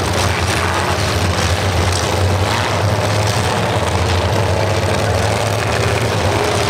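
Several demolition derby cars' engines running together at low speed with a steady, loud low rumble through open exhaust pipes that stick up through the hoods, as the cars creep into position.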